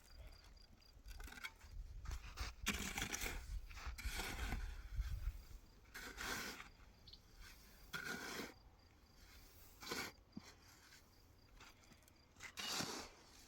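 Irregular scraping strokes, about eight of them, one every second or two.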